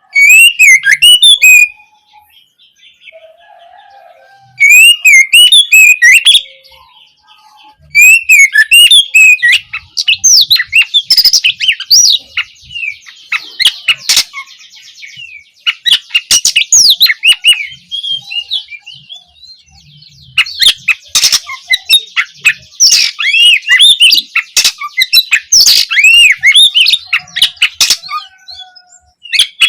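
Oriental magpie-robin (kacer) singing loudly: two short bursts of rapid whistled notes, then from about eight seconds a near-continuous fast song of varied whistles, trills and harsh notes.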